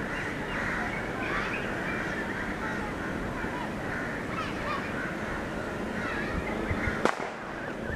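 Birds chirping and calling in many short, quick notes, over a steady low background rumble, with a single sharp click near the end.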